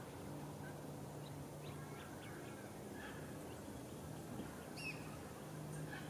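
Small birds calling: a few short, high chips about a second or two in and one brighter high call near five seconds, over a faint steady low hum.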